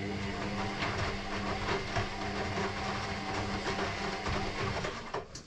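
Electrolux EW6S404WU front-loading washing machine's drum turning during the wash cycle: a steady motor hum with the clatter of the wet load tumbling. It stops suddenly near the end, as the drum pauses between turns.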